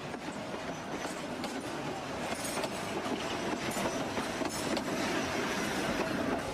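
A train running on rails, its wheels clattering over the rail joints, growing steadily louder as it comes closer.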